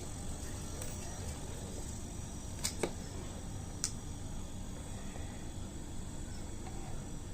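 Refrigerator compressor running with a steady low hum during refrigerant charging, with two light clicks about two and a half and four seconds in.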